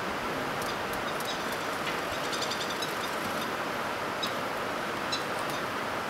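Steady outdoor background noise with faint short, high chirps and ticks scattered through it, including a quick run of them about two and a half seconds in.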